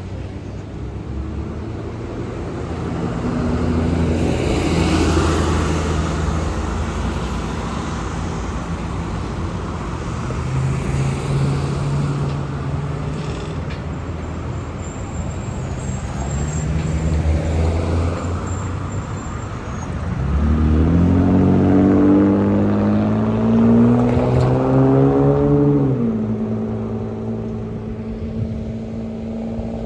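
Street traffic with a transit bus's engine running; about two-thirds of the way in the engine note rises steadily for several seconds as it pulls away, then drops abruptly to a steady hum near the end.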